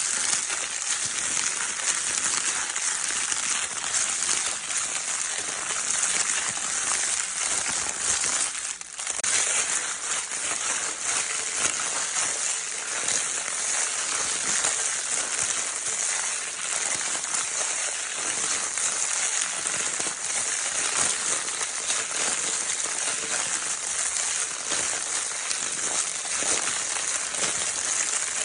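Crinkle paper in a baby's crinkle toy being scrunched continuously: a dense, steady crackle with a brief lull about nine seconds in.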